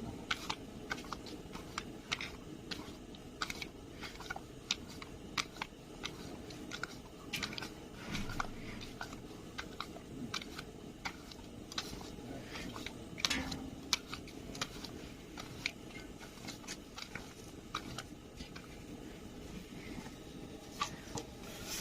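Eating sounds: chewing and biting food, with many small irregular clicks.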